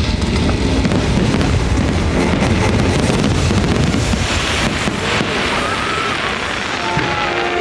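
Fireworks bursting in quick succession: a dense low rumble of booms with sharp crackles through it, and show music faintly underneath.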